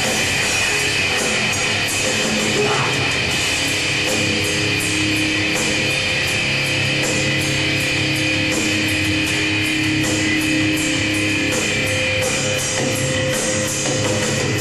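Live heavy metal band playing an instrumental passage: distorted guitars and bass holding sustained notes over a steady drum kit beat with regular cymbal hits.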